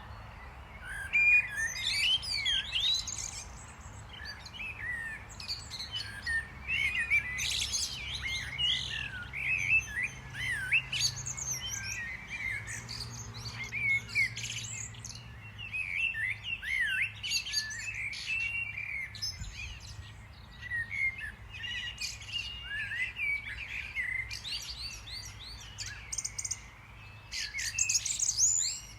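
Small songbirds chirping and twittering, many short rising and falling calls overlapping without a break.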